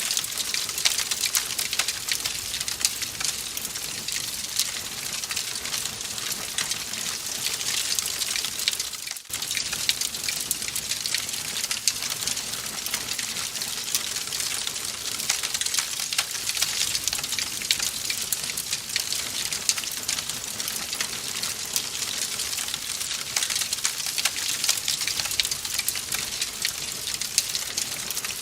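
Wood fire crackling in a fireplace: a dense, continuous spray of small crackles and pops over a steady hiss, with a momentary dip in level about nine seconds in.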